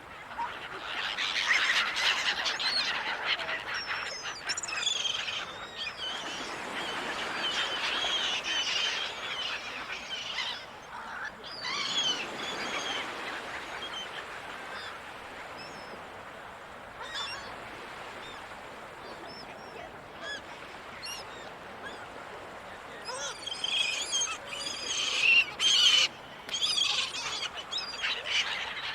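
Seagulls calling, many short wavering cries overlapping over a steady rush of background noise, with a loud, dense flurry of calls near the end.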